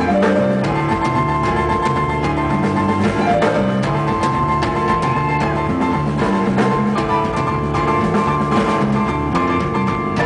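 Blues-rock band playing an instrumental passage live, drum kit and guitar over sustained chords, with a few bent notes about halfway through.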